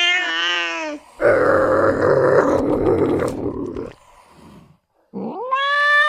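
Wild cat vocalizations: a short wavering yowl, then a growl lasting about three seconds. After a brief silence, a rising yowl begins near the end.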